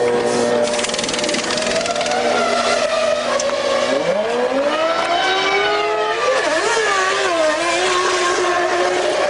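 Formula One car V10 engine sound in the pit lane, with a short rapid rattle at the very start. About four seconds in the engine note rises sharply and wavers, then holds a steady high pitch.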